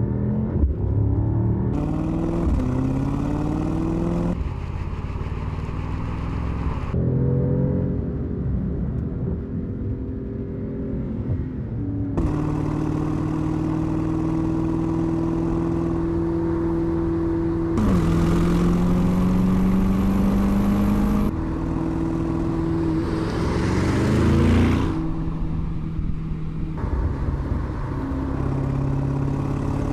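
Mercedes-AMG GT 63's 4.0-litre twin-turbo V8 exhaust, heard in several short takes. The revs are held steady in some and climb in others as the car accelerates.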